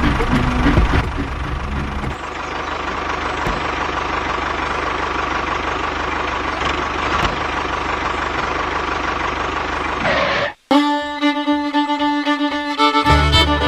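A machine running steadily with a faint held whine. It cuts off abruptly about ten and a half seconds in, and fiddle music with a bouncy beat starts.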